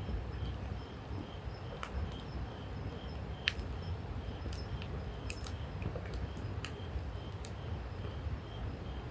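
Wood campfire burning, with sharp, irregular crackles and pops over a steady low rumble; the loudest pop comes about halfway through.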